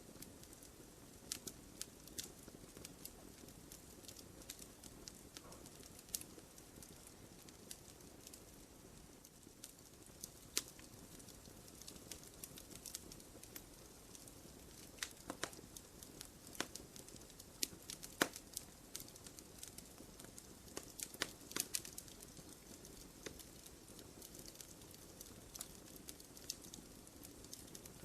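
Wood fire crackling in a fireplace: irregular sharp pops and snaps over a low, steady hiss, with a few louder pops scattered through.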